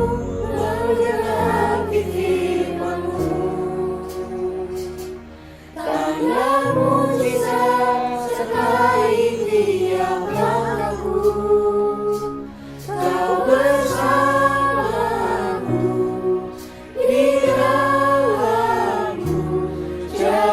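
Choir singing a slow hymn over steady low accompaniment notes, in long phrases with short breaks about 6, 12 and 17 seconds in.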